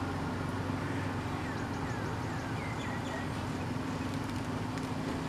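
A steady low engine hum, with faint short high chirps over it.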